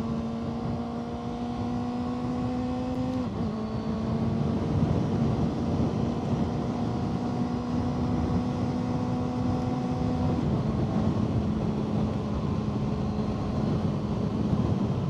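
Motorcycle engine running at a steady pitch under road and wind noise, the note dipping slightly about three seconds in.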